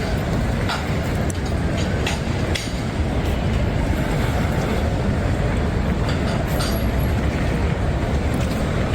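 Steady city street noise with a low, even rumble of passing traffic and a few faint clicks.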